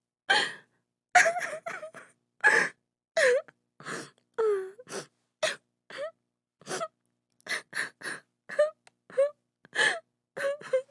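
A woman crying: a quick string of short gasping sobs and catching breaths, some breaking into brief wailing cries that fall in pitch, with dead silence between each one.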